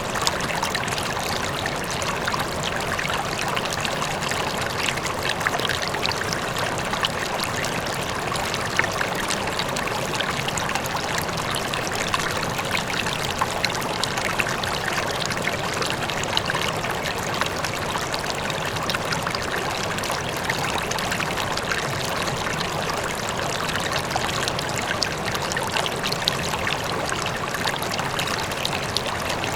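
River water flowing steadily over rocks, a continuous rushing and babbling with small splashes, with a faint waterfall in the distance.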